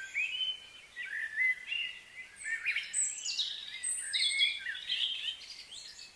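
Songbirds singing and chirping: a busy run of varied chirps and sliding whistles, thickest in the middle of the stretch and thinning out near the end.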